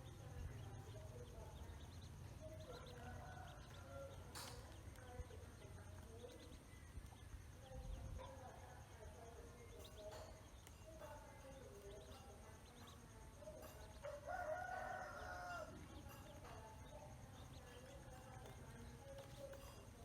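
Faint scattered calls of farmyard fowl, with one longer, louder call about fourteen seconds in.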